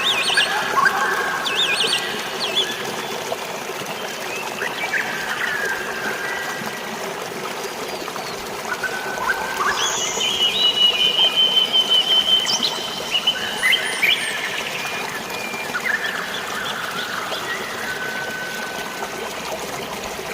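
Several birds calling and chirping over a steady rush of flowing water, with one long held whistle about halfway through.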